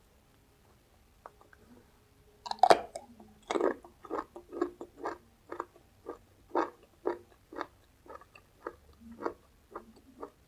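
A person bites into crisp raw vegetables with a loud crunch about two and a half seconds in, then chews with short crunches about twice a second.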